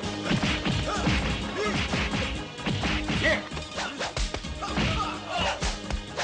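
Kung fu fight sound effects: a rapid run of punch, kick and crash impacts with swishes, over a dramatic film score.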